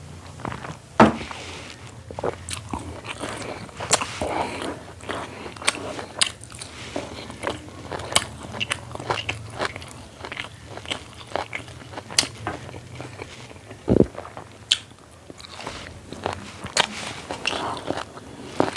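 A person chewing and biting into a meal of rice, buffalo meat and fried beans close to the microphone, with many small crunches, crackles and mouth clicks. A sharp click comes about a second in and a dull knock late on.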